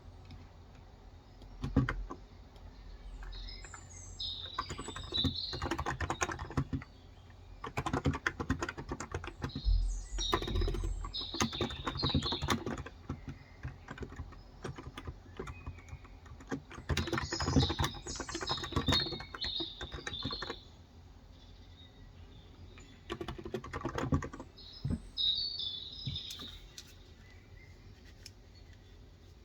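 Typing on a Cox Endeavor electro-capacitive (Topre-style) keyboard with light 35 g switches, in several runs of keystrokes with short pauses between, ending a few seconds before the end. Small birds chirp throughout.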